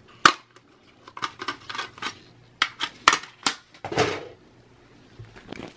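Parts of a Dell Optiplex small form factor desktop being handled and pulled out, making a string of sharp clicks and knocks. The loudest come about a quarter second in and around three seconds in, with a longer scrape about four seconds in.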